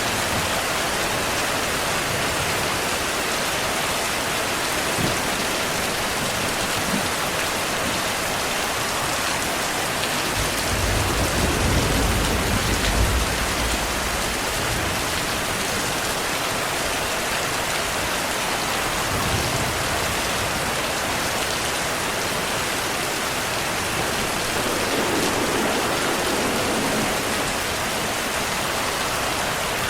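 Steady heavy rain hissing, with a low rumble of distant thunder about ten seconds in that lasts a few seconds, and a fainter rumble a little before the twenty-second mark.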